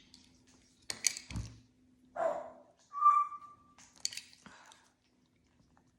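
An African grey parrot gives one short, steady whistle about three seconds in, among a few soft taps and a dull thump about a second in.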